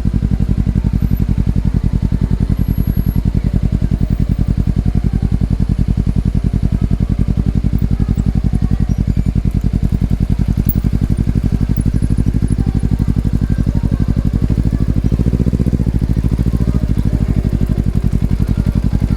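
Exhaust of a Honda CBR250RR's parallel-twin engine through an Over Racing aftermarket exhaust. It runs steadily at a low, unchanging engine speed, with an even, rapid pulsing.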